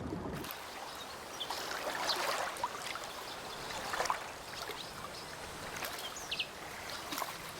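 Carp splashing and thrashing in shallow floodwater while spawning: irregular splashes over a steady watery hiss, with a few short bird chirps about six seconds in.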